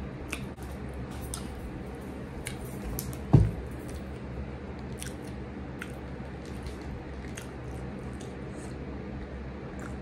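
Close-up mouth sounds of chewing a shrimp taco: small wet clicks and squishes scattered throughout, over a steady low hum. About three and a half seconds in comes one loud, short thump.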